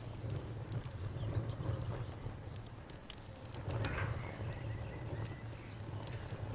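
Campfire crackling with scattered sharp pops over a steady low rumble, while crickets chirp in a steady pulsing trill. A brief frog call comes about four seconds in.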